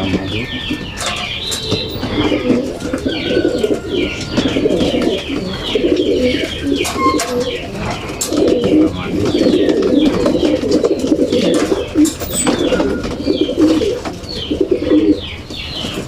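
Many racing pigeons cooing together without a break, with short higher chirping calls and a few sharp clicks over the top.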